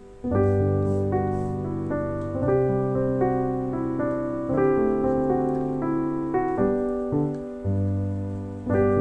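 Background piano music, gentle and unhurried, with notes and chords changing every second or so; it restarts after a short dip at the start.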